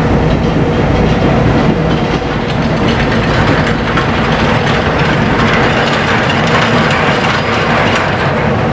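Cargo ship's machinery running steadily: a loud, continuous mechanical clatter over a low hum.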